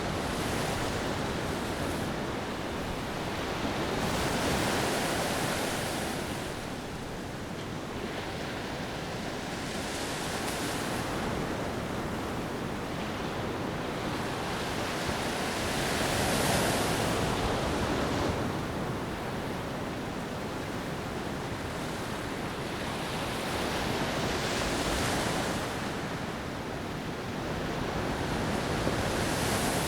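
Ocean waves breaking and washing up a beach, a swell of surf about every five or six seconds over a steady hiss of water.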